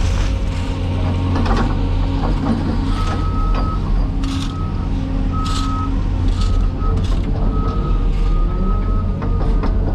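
Heavy diesel construction equipment running at a steady low drone. About three seconds in, a backup alarm starts beeping repeatedly, a beep roughly every second, as a machine reverses.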